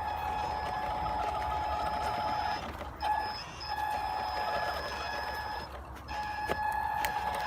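Brushed 390 electric motor of a 1:12 RC truck whining at a steady pitch. It cuts out briefly twice, with a few sharp clicks in the second half.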